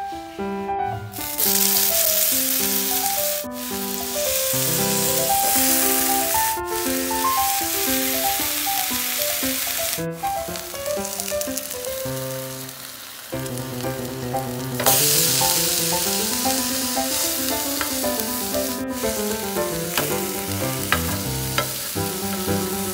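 Pineapple slices sizzling in oil on a hot cast-iron tawa, a steady hiss with a few brief breaks. A melodic tune plays throughout.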